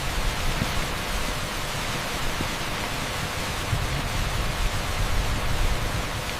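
Torrential rain on an asphalt street: a dense, steady hiss with a low rumble underneath.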